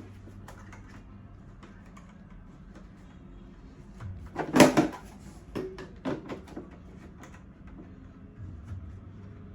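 Plastic and metal parts of a baby high chair being handled and fitted together: a loud clatter about halfway through, then several smaller clicks and knocks.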